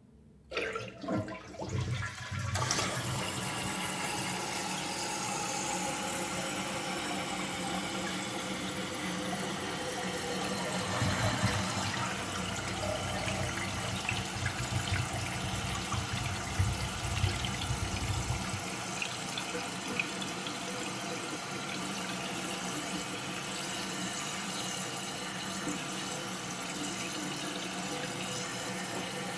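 Toilet flushing: a few clicks at the start as the tank lever is worked, then water rushing with a low rumble as the tank empties into the bowl. After about eighteen seconds the rumble stops, leaving the steady hiss of the tank refilling.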